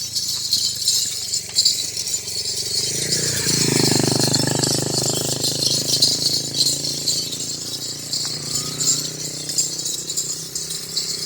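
Continuous jingling and rattling of small bells, like ankle bells on walking goats. A drawn-out lower sound with a pitch of its own rises over it from about three and a half to six seconds in.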